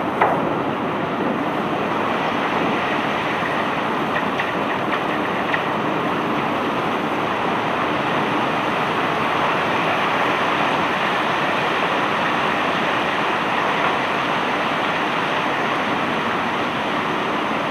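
Steady, loud mechanical noise of bulk-cargo unloading machinery working a barge load of cobblestones, with a sharp knock just after the start and a few faint ticks a few seconds in.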